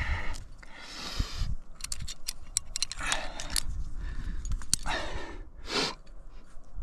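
Metal climbing gear (carabiners and quickdraws) clinking and jangling on a harness, with scattered sharp clicks and a few longer scuffing sounds.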